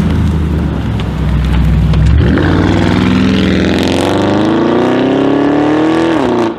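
Audi RS Q8's twin-turbo V8 accelerating hard away from the line. A low, deep rumble for about two seconds gives way to one long pull with the revs climbing steadily, and the revs drop sharply just before the end.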